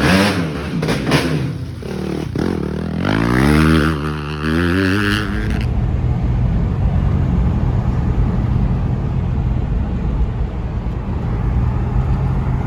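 Dirt bike engine revving, its pitch rising and falling and then climbing as it accelerates, cut off about six seconds in. Then a steady low engine drone with road noise, as of a car driving.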